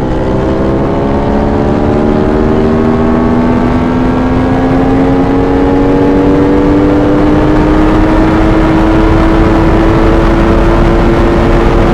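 V4 sportbike engine pulling steadily, its pitch rising slowly and evenly over several seconds as the bike gains speed, with no gear change.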